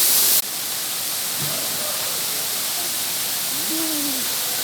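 Steady rushing of a waterfall, dropping abruptly to a lower level about half a second in.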